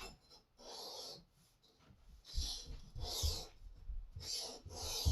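Wetted Edge Pro sharpening stone rubbed in short repeated strokes along a lopper blade to work off the burr, a dry rasping hiss with brief gaps between strokes.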